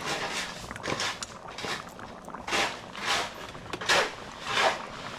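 A run of short swishing scrapes, about one every second or less, each lasting a fraction of a second, with the loudest strokes in the second half.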